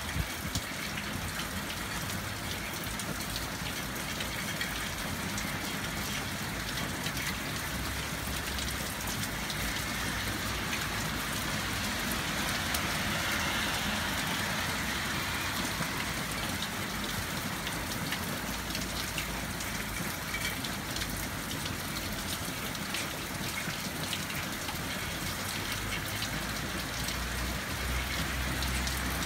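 Hard rain falling steadily, with many separate close drop impacts as water runs off the edge of a roof awning.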